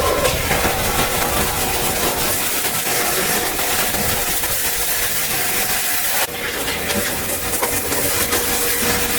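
Steady loud hiss of cleaning equipment running, with a faint steady hum under it; the sound drops and changes abruptly about six seconds in.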